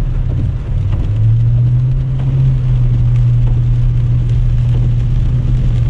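Car driving, heard from inside the cabin: a steady low engine and road drone that shifts up a little in pitch about a second in.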